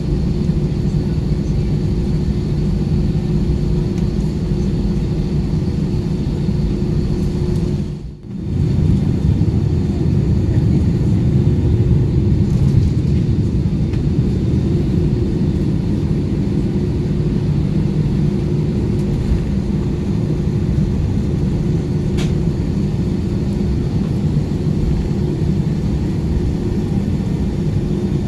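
Cabin noise of an Airbus A320 taxiing: a steady low rumble from the idling jet engines and rolling airframe, with a steady hum. The sound drops out for a moment about eight seconds in.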